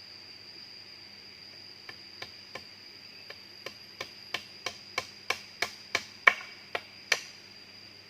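A series of about fifteen sharp knocks, roughly three a second, starting about two seconds in and growing louder, with the loudest near the end. Under them runs a steady high-pitched insect drone.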